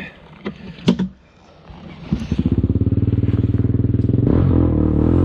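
A few knocks, then a single-cylinder four-stroke trail motorcycle engine starts about two seconds in and runs with an even, pulsing beat, picking up slightly near the end.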